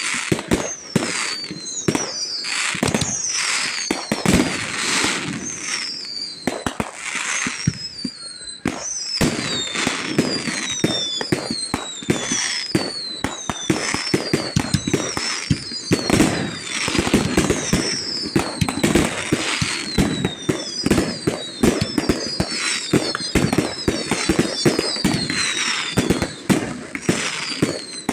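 Fireworks display at full intensity: dense, continuous bangs and crackling with many short, high whistles falling in pitch, overlapping one after another.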